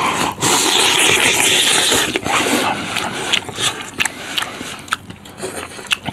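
A man eating hot braised beef rib off the bone: loud slurping and sucking for about two seconds, then wet chewing with scattered lip smacks.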